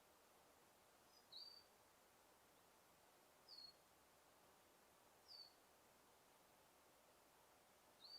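A bird in a forest giving a short, high chirp four times, about every two seconds, over a faint, steady background hiss.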